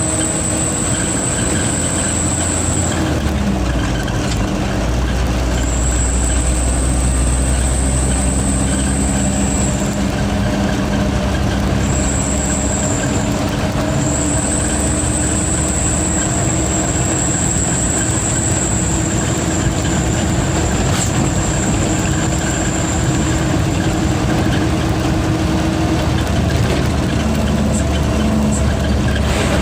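Diesel truck engine running under load with a high turbo whistle that comes and goes: it sounds for a few seconds, drops out, and returns four times in all, the longest stretch about ten seconds. Under it the engine drones steadily, its pitch gliding slowly.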